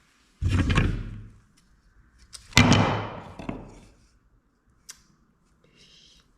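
Two heavy knocks about two seconds apart, each ringing out briefly, then a faint click.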